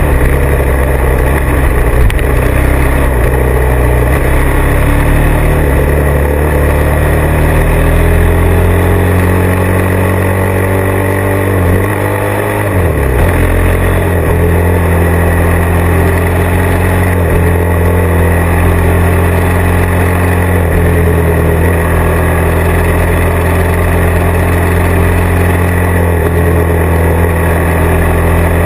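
Motorcycle engine running under way in the desert. The pitch climbs slowly, drops sharply about twelve seconds in as the throttle comes off or a gear changes, then holds steady.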